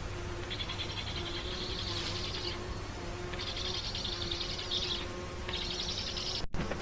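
A high, finely pulsed buzzing trill from a wild animal, heard in three bouts of about one to two seconds each, over a low steady hum. The sound drops out for an instant near the end.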